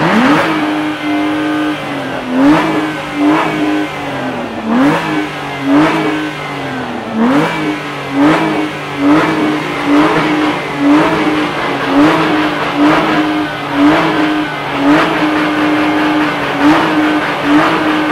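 Aston Martin V12 Vantage's V12 engine revved hard while standing still. In the first half it is held high for a second or so at a time, then allowed to fall back; after that it is blipped quickly, about once a second.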